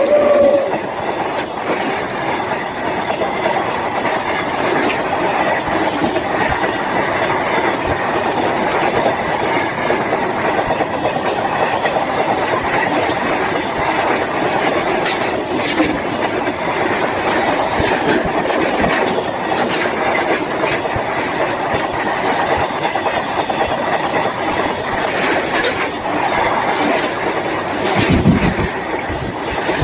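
Train running along the track, its wheels clattering over rail joints with irregular clicks above a steady rumble. A louder low rumble swells briefly near the end.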